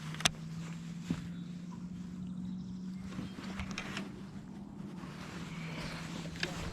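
Steady low hum of a boat's motor, with two sharp clicks or knocks, one just after the start and another about a second in.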